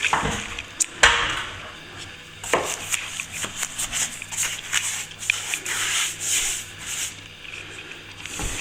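A few sharp knocks of a tool against the wall, then a run of repeated scraping strokes of a plastering tool across plaster.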